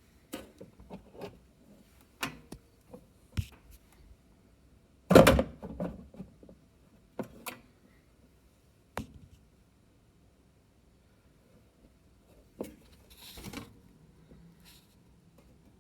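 Scattered clicks and knocks from handling an ECM Synchronika dual-boiler espresso machine whose boiler won't start, with one louder knock about five seconds in and a short hiss near the end.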